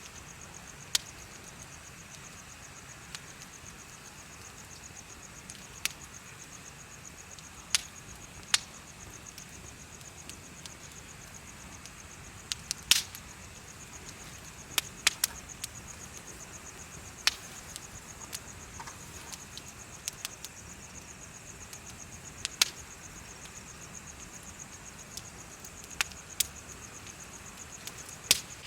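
Bonfire crackling, with sharp irregular pops every second or two, over the steady high trill of crickets.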